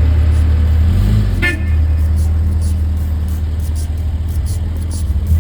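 Car driving, with a loud, steady low rumble of engine and road noise, and a brief high tone about a second and a half in.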